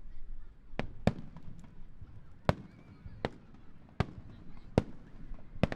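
Starmine fireworks display: aerial shells bursting in a run of sharp bangs, about seven in under six seconds at uneven intervals, over a low rumble.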